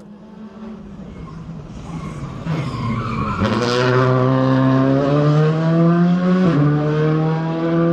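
Rally car engine accelerating hard as it approaches, growing steadily louder, its pitch climbing then dropping sharply at two upshifts, about three and a half and six and a half seconds in.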